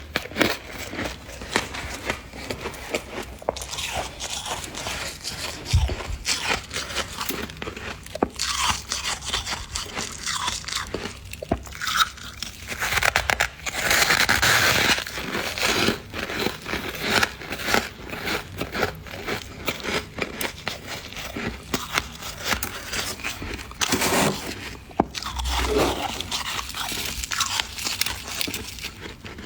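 Freezer frost crunching as it is bitten and chewed: a dense run of sharp, crackly crunches, with a louder, longer stretch of crunching about halfway through.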